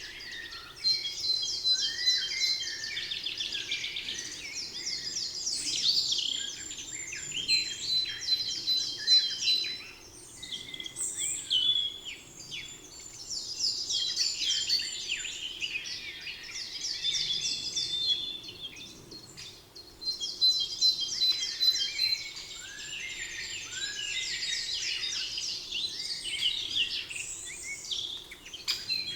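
Songbirds singing: phrases of rapid chirps and trills that come back every five to eight seconds, with other calls in between, over a faint steady background hum.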